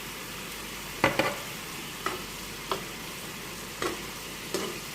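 A pan of chicken and onions sizzling steadily on the stove. A utensil clinks sharply against the cookware about six times as ingredients go in and get stirred.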